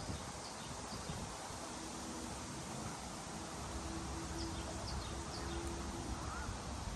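Wind blowing through trees and buffeting the microphone as a steady rush with low rumble. A few faint, short, high bird chirps come through, along with a brief rising whistle near the end. A faint steady hum runs through the middle.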